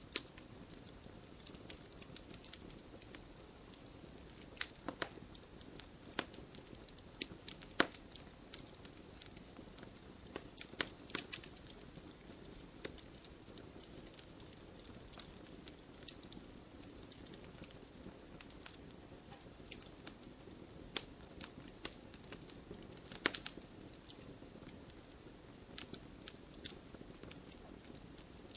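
Wood fire crackling in a fireplace: a steady low hiss of burning with irregular sharp pops and snaps, a few louder cracks among them.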